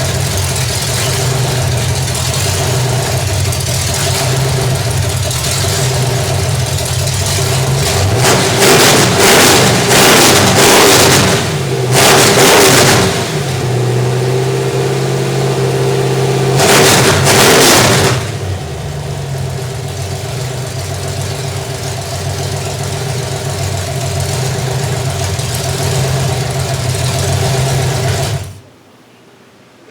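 Small-block Chevy 350 V8 with an RV cam, Holley 600 four-barrel and upright headers, in a Chevy K-10, on its first runs after being installed. It idles steadily, is revved several times about a third of the way in and again just past halfway, settles back to a steady run, and is shut off suddenly near the end.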